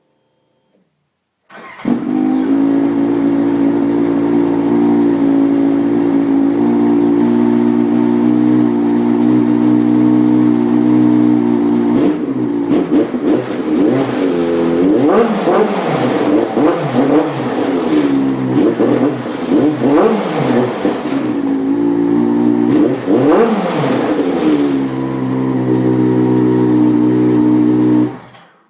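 2011 Yamaha Apex snowmobile's four-stroke four-cylinder engine running through a Hauck aftermarket exhaust. It starts up, idles steadily, then is revved again and again in rising and falling sweeps. It drops back to idle and shuts off.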